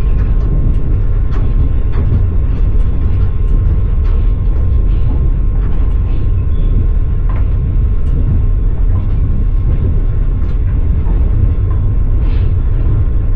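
Passenger train rolling along the track, heard from inside the carriage: a steady low rumble with irregular clicks and knocks of the wheels on the rails.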